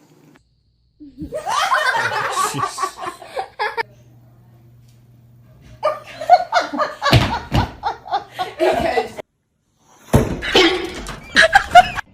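People laughing in three separate stretches, with short silent breaks between them.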